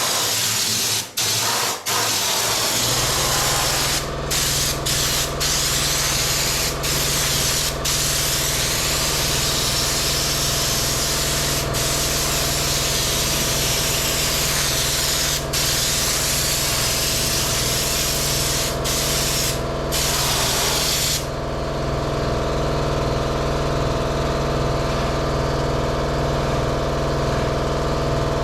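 Spray gun hissing as it sprays Raptor bed liner, in long passes broken by several short pauses. A steady low hum joins about three seconds in. The spraying dies away about seven seconds before the end, leaving the hum running.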